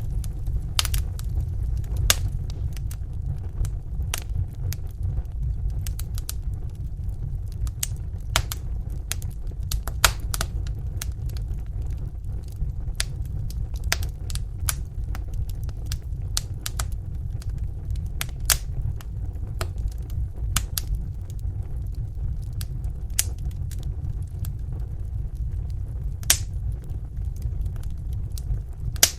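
Wood fire burning in a fireplace: irregular sharp crackles and pops over a steady low rumble of the flames, with a few louder snaps.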